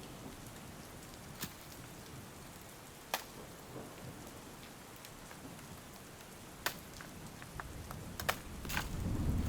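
Steady rain with scattered sharp drops ticking close by. Near the end a low thunder rumble begins to build.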